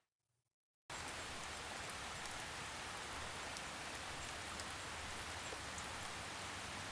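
Steady rainfall: an even hiss with scattered faint droplet ticks. It starts abruptly out of dead silence about a second in.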